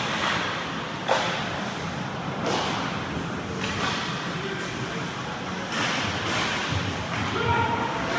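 Ice hockey play up close: skates scraping across the ice under a steady hiss, with sharp clacks of sticks and puck, the loudest about a second in.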